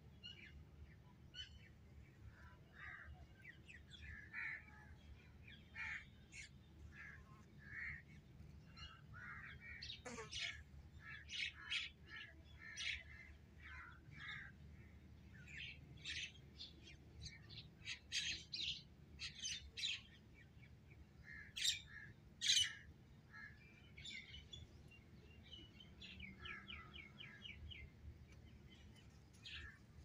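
Birds chirping with many short calls, including a quick run of about eight chirps in a second near the end and two louder sharp sounds about two-thirds of the way through, over a faint low steady hum.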